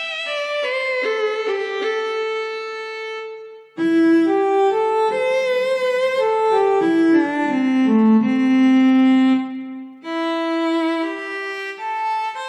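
Yamaha PSR-SX arranger keyboard playing a melody on its sampled violin voice, in three phrases with brief breaks about 4 and 10 seconds in. The middle phrase is louder and steps down to lower notes before holding a long one.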